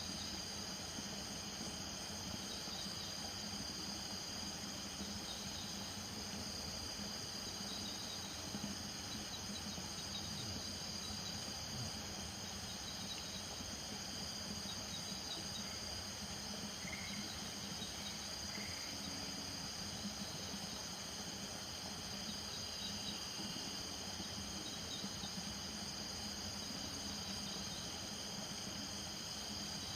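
Night chorus of crickets trilling steadily and high, with frogs calling lower underneath and a couple of short higher calls about two-thirds of the way through.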